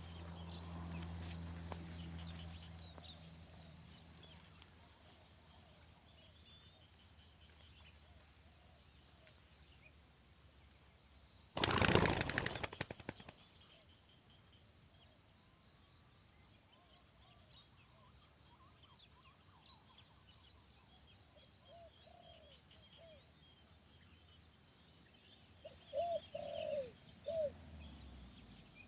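Spotted doves cooing in short repeated phrases, louder near the end. About twelve seconds in, a loud burst of rapid wing flapping lasts about two seconds. Small birds chirp faintly over a steady high insect whine.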